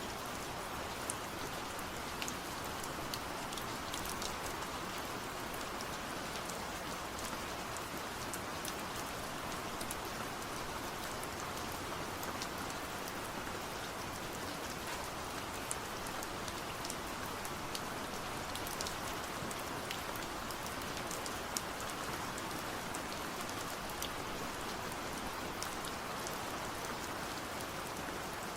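Steady rain falling, with a constant hiss and many small, sharp drop ticks scattered throughout.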